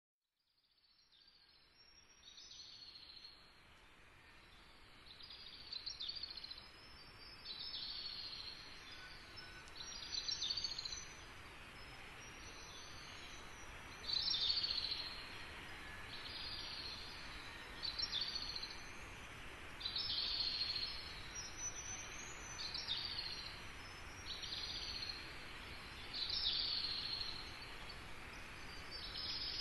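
A bird calling over and over, a short high chirp every second or two, over steady background noise.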